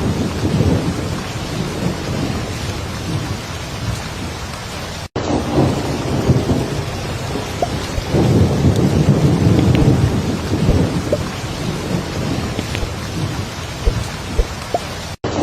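Heavy rain pouring steadily, with deep rolling rumbles of thunder swelling and fading. The sound cuts out for an instant twice.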